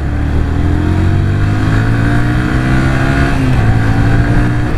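Yamaha New Vixion Lightning's single-cylinder engine accelerating: its pitch climbs steadily, drops at a gear change about three and a half seconds in, then climbs again.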